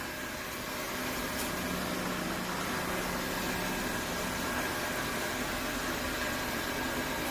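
Robot vacuum cleaner running: a steady whirr of its motors and suction fan with a faint steady whine.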